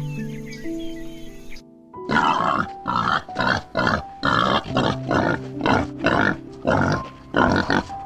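Common warthog feeding on grain pellets close up: loud rhythmic noisy bursts, about two a second, over soft piano music. During the first second and a half, before the warthog, only piano music with faint bird chirps.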